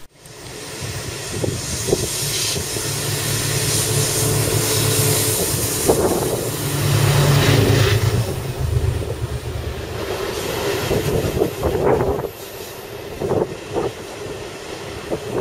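Diesel freight locomotive passing close, its engine a low steady drone for the first several seconds. Then the loaded hopper wagons roll by, with irregular knocks from the wheels on the rails.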